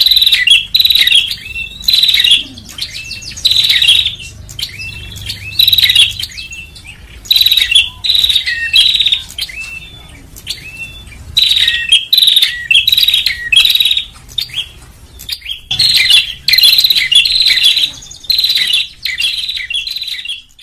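Prinia (prenjak) lure calls: loud, rapid bursts of high chirping repeated in clusters every second or two, with short pauses between them. This is a playback recording meant to draw small birds in.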